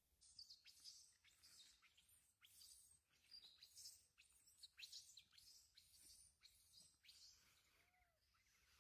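Faint birdsong: many quick, high chirps from wild birds, thinning out near the end.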